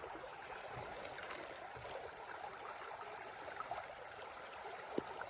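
Steady run of a small creek flowing over rocks, with a few faint ticks and one sharper click near the end.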